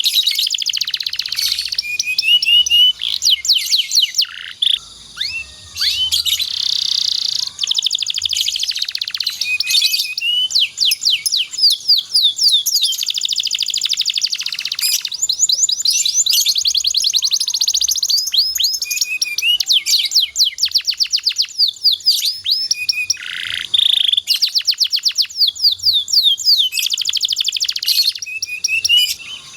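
Domestic canary singing a long song of fast trills and rapid runs of repeated high notes, broken by a couple of short pauses.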